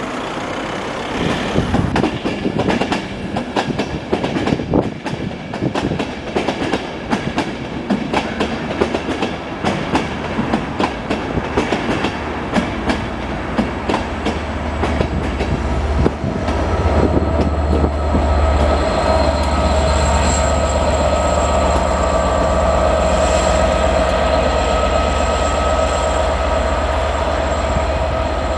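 Passenger train running into a station: at first the coaches' wheels click rapidly over rail joints. From about halfway the propelling Class 67 locomotive's two-stroke V12 diesel-electric engine draws near, with a steady low drone and a high whine over it.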